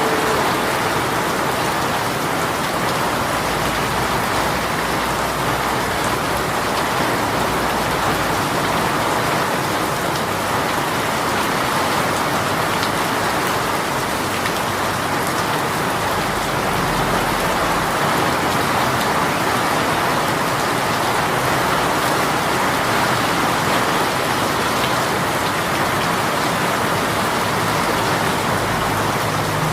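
A heavy rain shower pouring steadily: a dense, even hiss of rain falling on surfaces, without let-up.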